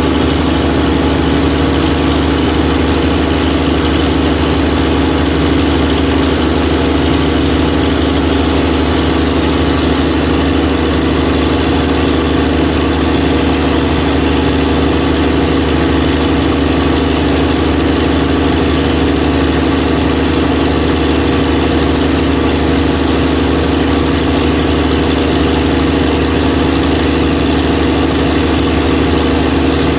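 Open-frame Cummins 400 kVA diesel generator set running steadily after a test start, with a thin high whine above the engine's sound.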